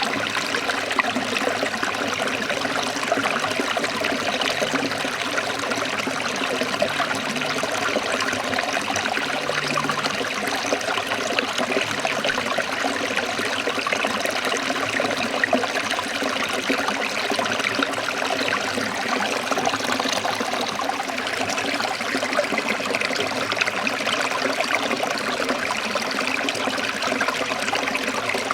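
Forest stream water trickling and flowing steadily, an even rush with no breaks.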